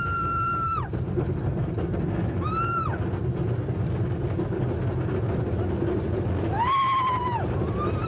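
Three long wailing screams, each rising, holding and dropping away, over a steady rumble: riders screaming on a roller coaster.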